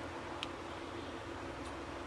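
Steady background hiss with a faint low hum, and a single sharp small click about half a second in.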